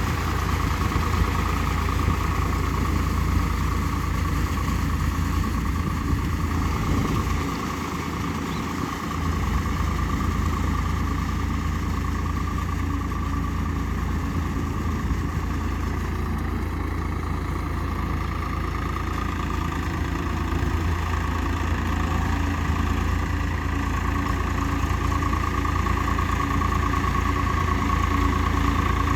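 Swaraj 744 FE tractor's three-cylinder diesel engine running steadily, with a brief dip in its low rumble about eight seconds in.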